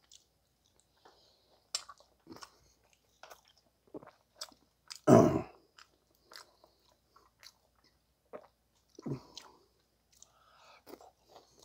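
A man chewing curry rice and kimchi, with short clicks and taps of a metal spoon and chopsticks against a stainless steel bowl and a plastic container. A louder knock or clatter comes about five seconds in.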